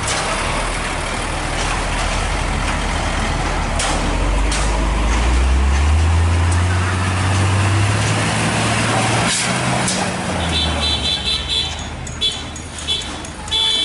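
Heavy truck engine revving, its pitch climbing for several seconds before dropping off about nine seconds in. In the last few seconds a vehicle horn sounds in short repeated toots.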